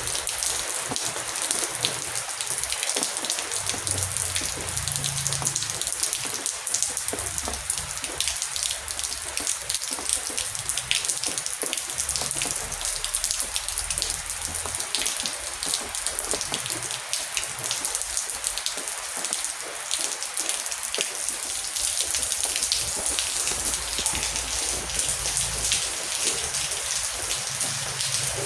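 Heavy rain falling steadily, a dense patter of many separate drop impacts over an even hiss.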